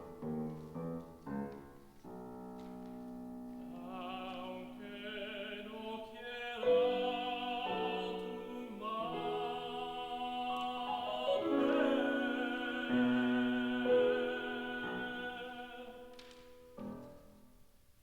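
A tenor singing a classical art song with vibrato over piano accompaniment. The piano plays alone for the first few seconds, the voice comes in and holds long notes, and the song closes with a last piano chord near the end.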